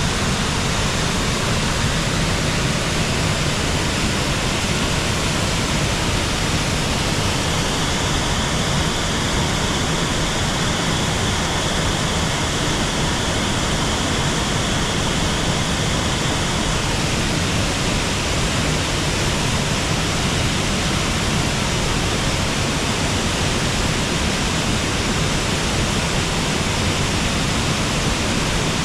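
A waterfall and river rushing in a steady, dense roar of water. A slightly brighter high hiss joins in from about a quarter of the way through to just past the middle.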